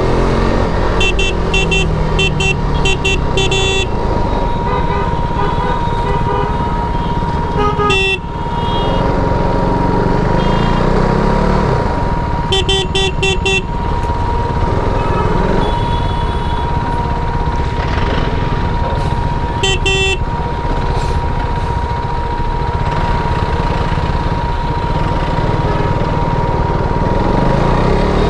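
KTM RC 390's single-cylinder engine running under way, revs rising and falling through the gears, with clusters of short horn toots sounding several times.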